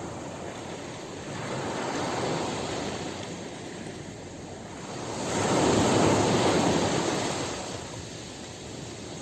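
Ocean surf washing onto a beach in slow swells, with a bigger wave breaking about five and a half seconds in.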